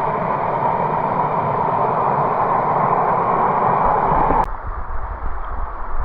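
Water rushing steadily over a cascade. It cuts off abruptly about four and a half seconds in and gives way to low wind rumble on the microphone.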